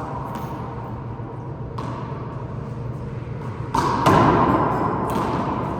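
A handball rally: the ball is struck by hand and rebounds off the court walls and floor. It makes about five sharp thuds with an echoing ring after each, the loudest pair about four seconds in.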